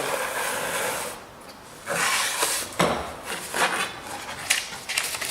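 Dividers scribing an arc onto a metal workpiece: a scratchy scraping in several strokes, with a short pause about a second in.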